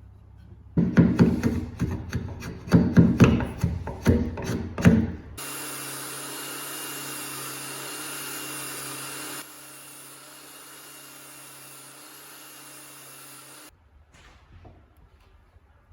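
About a dozen uneven scraping strokes of a hand tool worked against wood, then an electric power tool running at a steady pitch. The power tool gets quieter about halfway through its run and cuts off suddenly near the end.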